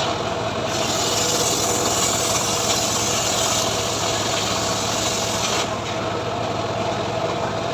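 Homemade engine-driven sawmill running steadily, its blade cutting through mahogany wood: a loud hissing rasp over the engine's drone starts about a second in and stops a little past the middle, leaving the engine running on.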